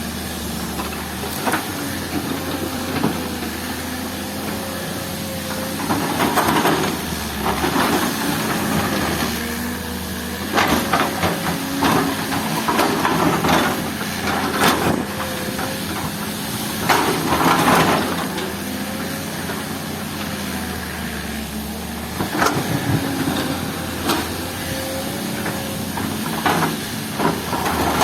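Diesel engine of a heavy earthmoving machine running steadily under work, with louder bursts of harsh noise every few seconds as it digs or moves earth and rock.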